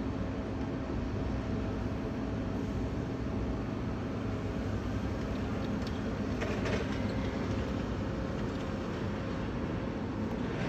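Steady low drone of a factory's running motor, with constant hum tones and no change in pitch. A short, faint clatter comes about six and a half seconds in.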